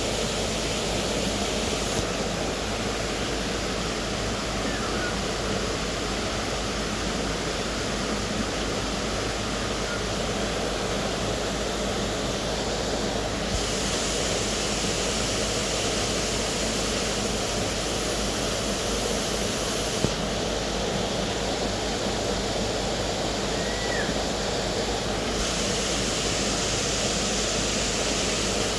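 Waterfall rushing steadily, its hiss brightening and dulling abruptly a few times, with a couple of faint short bird chirps.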